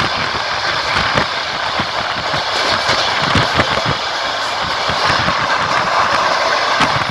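Passenger train running along the line: a steady rolling rattle with repeated irregular knocks of the wheels on the rails.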